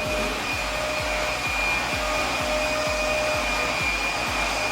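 Electric fan running with a steady whirr and a faint steady whine, pulsing low about four times a second.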